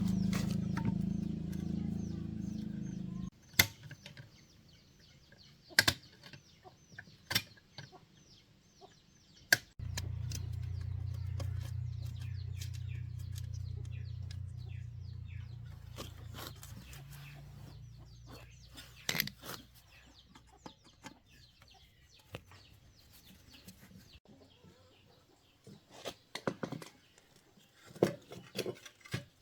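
Electric motor of a banana slicing machine running with a low hum, cutting off suddenly about three seconds in, then starting again about ten seconds in and slowly fading away over the next ten seconds. Sharp clicks and knocks come in between.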